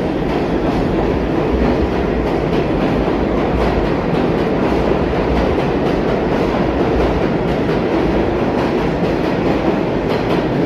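New York City subway train running through the station, a loud steady rumble with a faint clatter of wheels over the rails.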